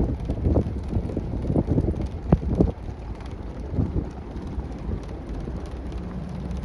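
Vehicle driving down a snowy mountain road: a low rumble with several knocks and bumps in the first few seconds, then steadier.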